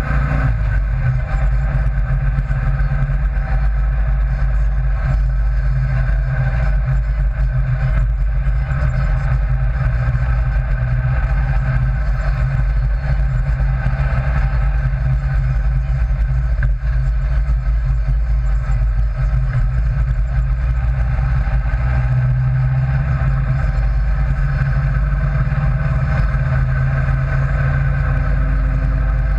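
The engine of an open 'rail' vehicle cruising at highway speed, a steady low drone that holds an even pitch.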